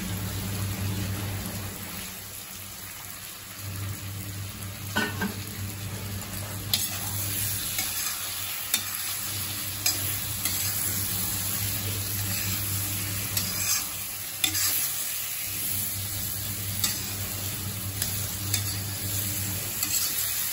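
Potatoes and stuffed brinjals sizzling in oil in a kadhai while being stirred with a steel spatula, which scrapes and clicks against the pan every second or two, over a steady low hum.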